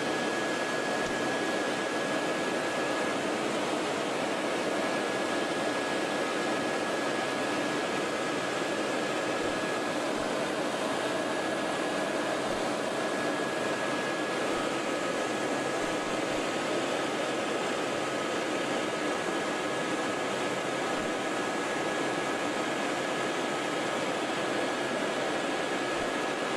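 Helicopter engine and rotors running steadily in flight: an even rushing noise with faint, steady high whine tones.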